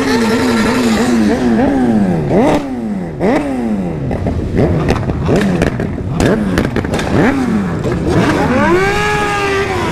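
Several remapped sport motorcycle engines revving over and over, each rev a quick rise in pitch that falls away, overlapping one another, with scattered sharp pops. Near the end one engine climbs and holds a high rev.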